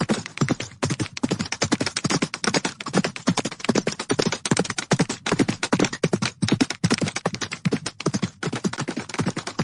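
Horses galloping: a fast, dense clatter of hoofbeats, each with a heavy thud, several strikes a second.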